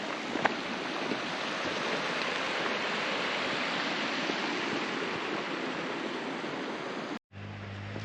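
Steady rushing of a mountain stream, an even hiss of water. It cuts off suddenly about seven seconds in, and a steady low hum follows.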